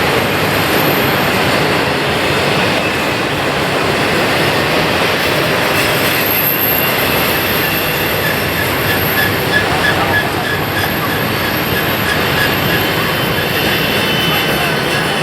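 Freight cars rolling around a tight curve: a steady, loud rumble of steel wheels on rail, with high-pitched wheel squeal coming and going, strongest in the second half.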